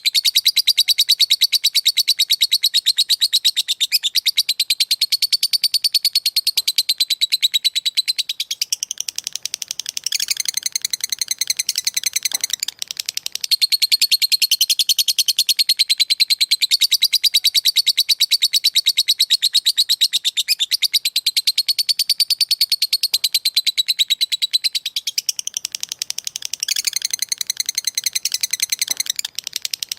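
A lovebird's long 'ngekek' chatter: an unbroken run of very rapid, sharp, high-pitched notes, with a brief change in pattern twice.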